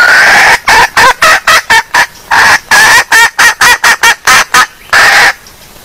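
Female red junglefowl hen calling: a longer call to open, then a rapid run of about a dozen short clucks at roughly three a second, and another longer call near the end.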